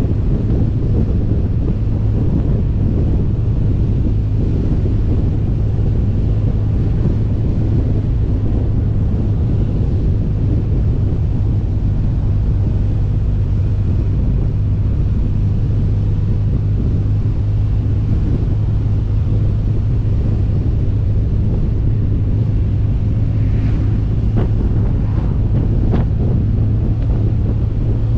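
Wind noise on the microphone of a motorcycle under way, with the steady drone of a 2011 BMW R 1200 GS Adventure's boxer-twin engine beneath it.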